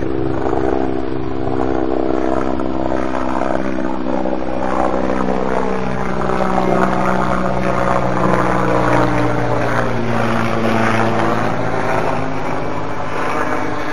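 Electric motor and cut-down propeller (a 9x5 trimmed to about 7.2x5) of a Raven V2 RC model plane in flight, a steady pitched whine that slides down and back up in pitch several times. Strong wind rumbles on the microphone underneath.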